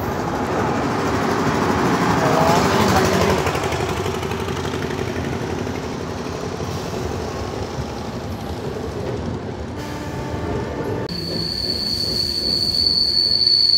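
Passenger train running: rumble and wheel noise of the moving coach. About eleven seconds in, a steady high-pitched squeal sets in, and the sound grows louder toward the end.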